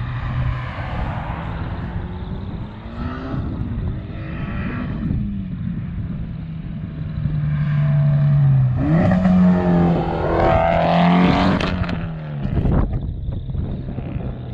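Car engine running with a steady low note, then revving harder for about three seconds past the middle with its pitch climbing, before dropping back.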